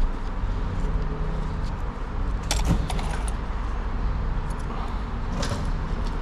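Small fasteners clinking and rattling as they are sorted through by hand, with a louder jingling cluster about two and a half seconds in and another near five and a half seconds, over a steady low hum.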